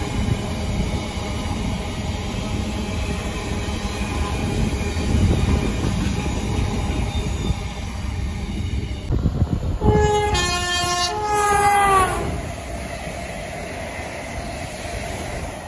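Container freight train rolling past, its wagons rumbling steadily on the rails. About ten seconds in, a passing Class 350 electric multiple unit sounds its two-tone horn, high, low, then a held high note whose pitch drops at the end as it goes by.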